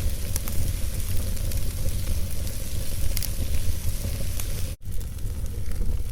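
Log fire burning in a fireplace: a steady low rumble of flames with scattered sharp crackles and pops from the burning wood. The sound drops out for an instant near the end.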